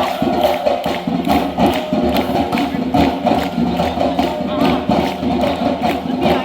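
Samba band playing: drums and hand percussion keep a steady, busy beat.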